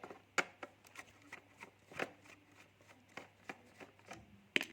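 Small, irregular clicks and taps of hands and a tool working on a laptop's plastic case and parts, with a sharper double click near the end.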